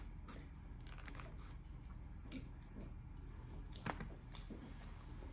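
Faint eating sounds close to the microphone: chewing with scattered wet mouth clicks and smacks, the sharpest one about four seconds in.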